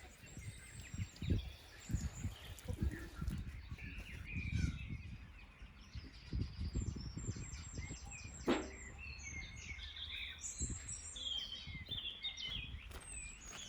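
Small birds chirping and singing, including a quick pulsed trill, over irregular low thuds and rustling, with one sharp knock about eight and a half seconds in.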